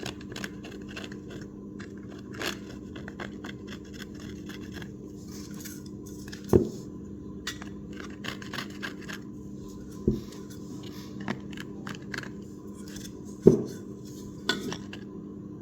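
Blunt scalpel blade scraping old foam surround residue off a plastic speaker cone: light, irregular scratching with a few sharper clicks. A steady low hum runs underneath.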